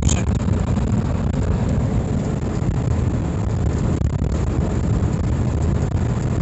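Steady engine, road and wind noise inside the cab of a Suzuki Super Carry mini truck driving at road speed.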